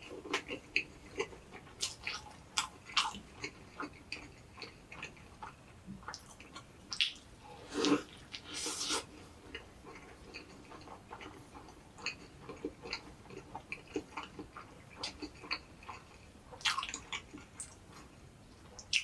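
Close-up eating sounds of an egg drop toast sandwich: soft, wet chewing with many small mouth clicks. A louder burst of noise comes about eight seconds in.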